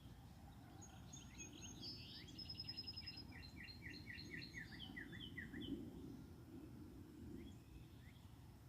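A songbird singing one faint, varied phrase: quick chirps and a fast high trill, then a run of short downward-sliding notes, ending about five seconds in. A low, steady rumble sits beneath it.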